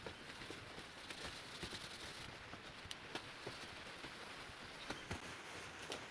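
Automotive polishing compound being rubbed by hand onto a dull metal fireplace tray: faint rubbing with scattered light ticks and taps.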